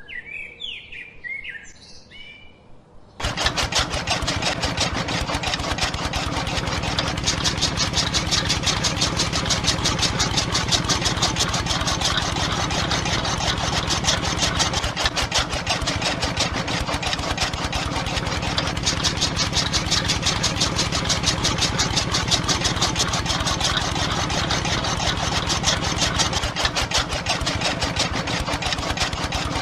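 Birds chirping for about three seconds, then a small engine comes in suddenly and runs steadily with a fast, even beat.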